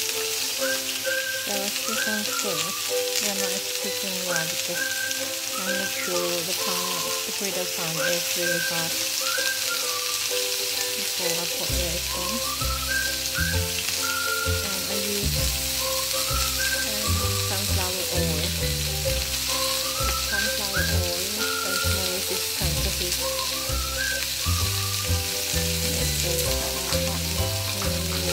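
Marinated chicken skewers sizzling and frying on a hot, oiled griddle pan, a steady hiss. Background music plays underneath, with a bass line coming in about twelve seconds in.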